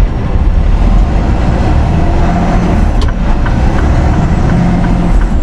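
Semi truck's diesel engine running steadily while driving, with road noise.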